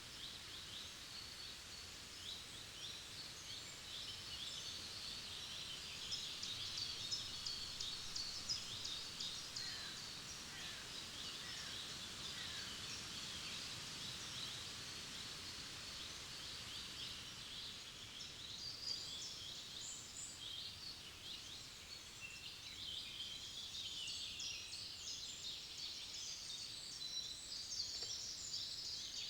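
Several songbirds singing in a forest, a dense chorus of short, quick high chirps and trills over a faint steady background. The singing is busiest about a quarter of the way in and again near the end.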